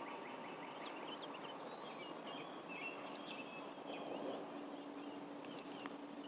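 Outdoor ambience of many short, high bird chirps over a steady background hiss and a faint low hum.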